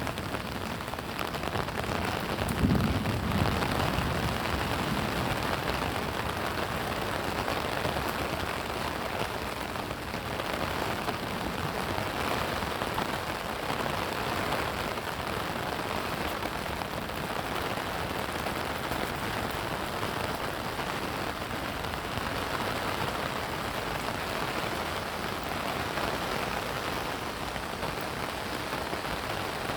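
Steady rain falling, an even hiss of drops on surfaces, with a brief low rumble about three seconds in.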